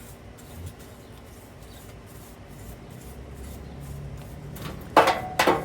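Dust being rubbed and scraped off a dirty HVAC blower motor, soft rubbing at first, then two short, loud scrapes about half a second apart near the end.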